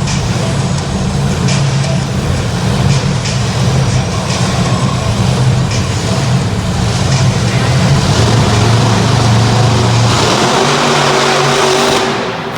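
Monster truck engines running hard at high revs during a side-by-side race. About ten seconds in, the steady engine note gives way to a noisier wash.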